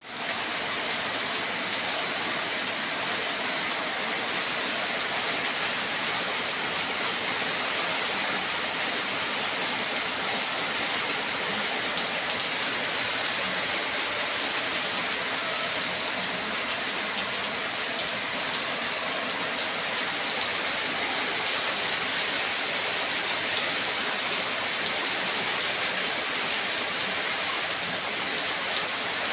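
Steady rain falling and pattering on surfaces, with scattered sharp drop ticks.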